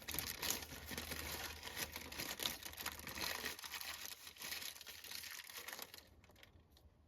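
Wrapping around a brownie crinkling and rustling as it is handled and unwrapped, stopping about six seconds in.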